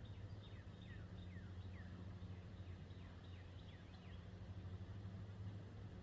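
Faint bird chirps: short calls, each sliding down in pitch, several a second, over a low steady hum. The chirping stops about four seconds in.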